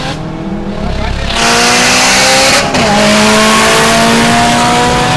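Volkswagen GTI's turbocharged four-cylinder engine, fitted with an IS38 turbo, heard from inside the cabin at full throttle. The pitch climbs steadily and drops at two upshifts, one near the start and a quicker one a little before the halfway point, then climbs again.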